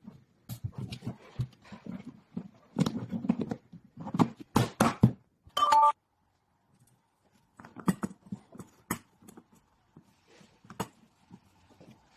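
Irregular knocks, clicks and rustling of parts being handled during assembly, with a short high squeak just before the middle and a brief pause after it.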